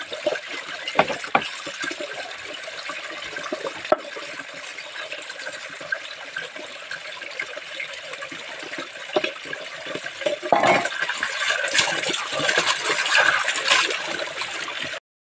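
Water running and splashing, with scattered sharp clinks, getting louder about ten seconds in.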